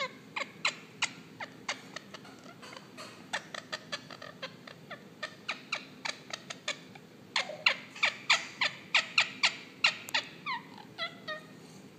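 Indian ringneck parakeet singing: a long series of short, quick downward chirps, coming fastest and loudest a little past halfway, then a few longer falling notes near the end.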